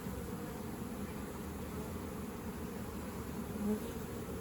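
Honeybees buzzing in a steady, dense hum as the swarm from a trap settles into a newly placed hive, with one brief louder pitched buzz near the end, likely a bee passing close to the microphone.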